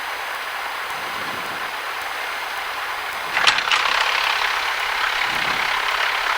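Cessna 172 engine idling, heard as a steady hiss through the cockpit intercom. A sharp crackle about three and a half seconds in leaves the hiss a little louder.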